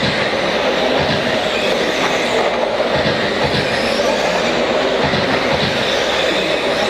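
A pack of 1/10-scale electric stadium trucks with 13.5-turn brushless motors racing together: a steady, dense whine of motors and gears that wavers slightly in pitch.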